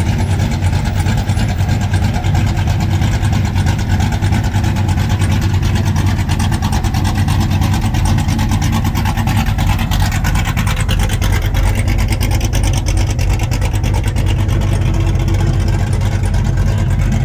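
Parade truck's big-cam engine idling with a choppy, uneven lope, loud and steady with rapid firing pulses. The lope is the sign of an aggressive, high-overlap camshaft.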